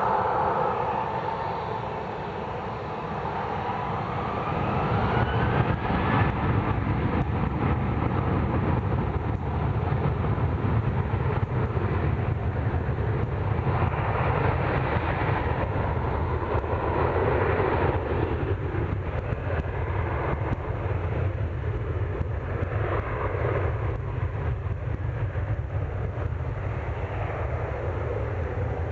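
Jet airliner's engines passing close by at high power: a whine that rises in pitch over the first few seconds, then a strong, steady low rumble.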